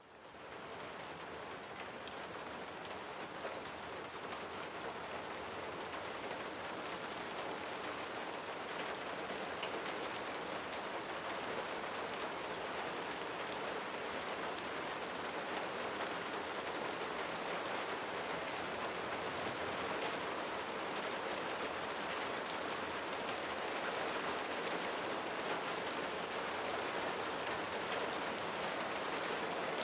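Steady rain falling on leaves, fading in from silence over the first second and then holding an even patter.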